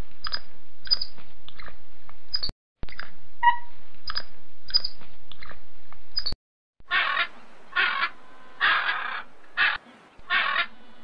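Sea otter squeaks and chirps, short and high, over a steady background noise; the same few seconds play twice. After a brief drop-out near two-thirds through come loud, harsh, repeated penguin calls, about one a second.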